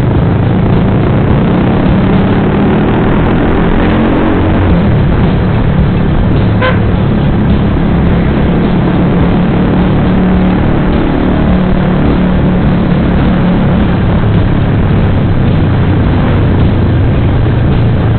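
Suzuki GSX-R150 motorcycle running steadily through its Proliner racing exhaust, with one short horn beep about six and a half seconds in.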